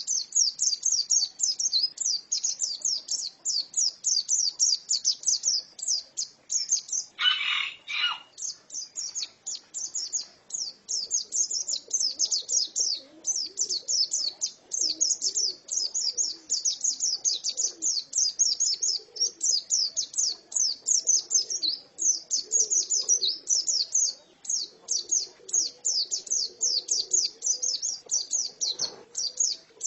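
Female white-eye (pleci) singing continuously, a rapid stream of high, twittering chirps with barely a pause. A short lower-pitched rasp cuts in about seven seconds in.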